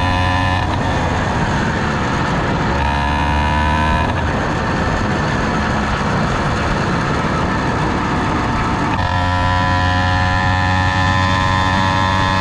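Pexmor 80cc two-stroke motorized-bicycle engine with an expansion-chamber exhaust, running. It holds a steady note for stretches, with a rougher, noisier spell in the middle.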